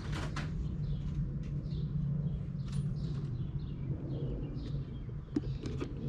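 Birds chirping repeatedly in the background over a steady low hum, with a few sharp clicks just after the start and again near the end.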